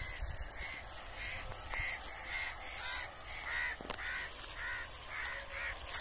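A bird calling over and over in short harsh notes, about two to three a second, over a steady high-pitched insect buzz, with one sharp click a little before four seconds in.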